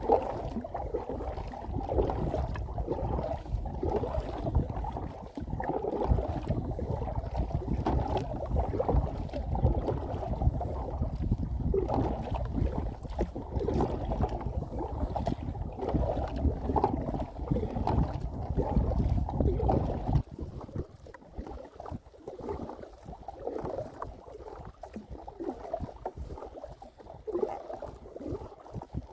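Water sloshing around a kayak, with wind buffeting the microphone as a low rumble. The rumble drops away about twenty seconds in, leaving the lighter water sounds.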